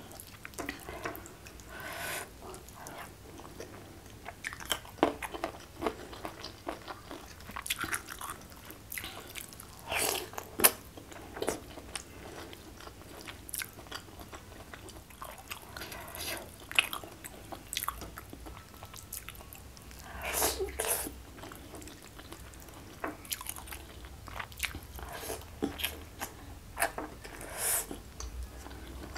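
Close-up eating sounds: rice and fish being bitten and chewed, with irregular short crunches and mouth clicks, a few louder clusters about ten and twenty seconds in.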